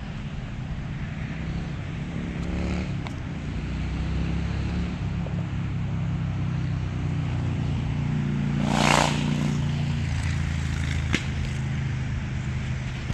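Steady drone of passing motor engines, with one louder pass swelling up and fading about nine seconds in.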